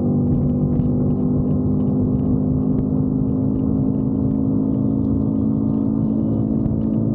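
Motorcycle engine running steadily at cruising speed, a constant droning hum that holds the same pitch throughout.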